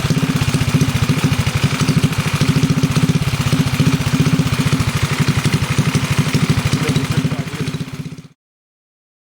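Briggs & Stratton 5 hp single-cylinder small engine running steadily on a test run after its head gasket rebuild, a fast even train of firing pulses. The sound cuts off abruptly near the end.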